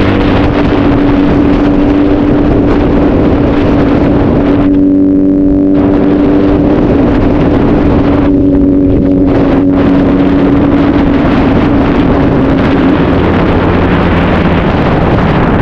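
Honda CBR1000RR's inline-four engine with a straight-through exhaust, running steadily while under way, with wind rushing over the microphone. Twice, about five and eight seconds in, the rushing thins out for about a second and leaves the engine's steady tone on its own.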